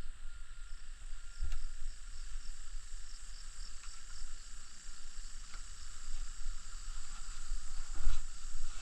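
Steady high-pitched insect drone with low wind rumble, and scattered small knocks and crackles from tinder and firewood being handled to relight a fire that has gone out; two louder thumps, about a second and a half in and near the end.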